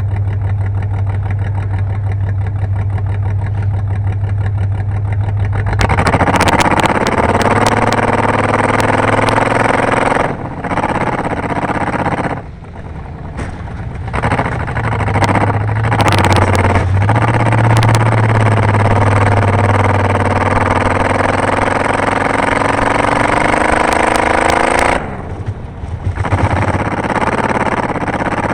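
A car engine idles steadily, then from about six seconds in it accelerates hard, climbing in pitch. The throttle lifts briefly several times along the way.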